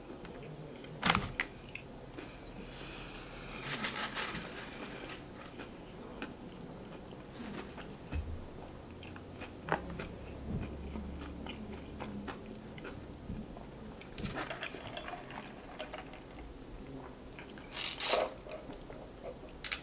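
Close-miked mouth sounds of chewing a crispy fried chicken sandwich, with scattered crunches and wet clicks. Near the end comes a short sip through a straw.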